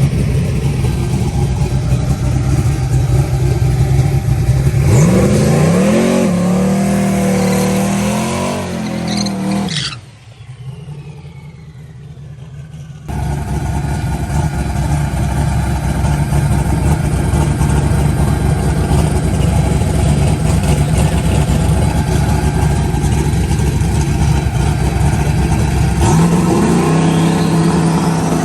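Truck's 6.2-litre LS V8 with a full exhaust, running loud. It rises in pitch about five seconds in and holds there. It drops off sharply for a few seconds, then comes back loud and steady and revs up again near the end.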